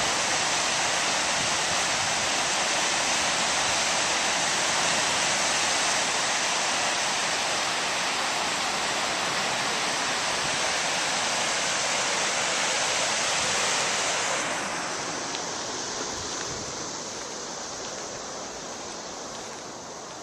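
Steady rush of river water at the Red River Floodway's gate structure. It grows fainter about two-thirds of the way through.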